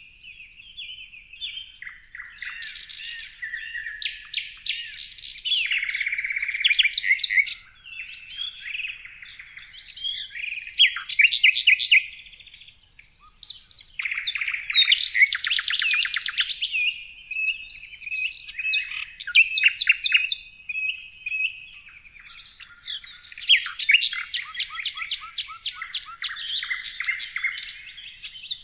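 Small songbirds chirping and singing: rapid high trills and twittering phrases from several birds overlapping, coming in bursts with short pauses between them.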